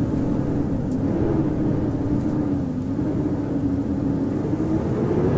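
Howling blizzard wind, a steady rushing noise with a low howl that wavers slowly in pitch.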